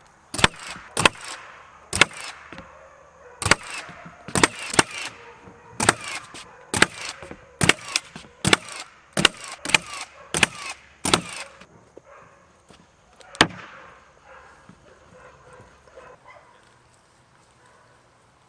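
Nails being driven into wood framing: about twenty sharp, loud impacts in quick, uneven succession, stopping after about eleven seconds, with one last impact a couple of seconds later.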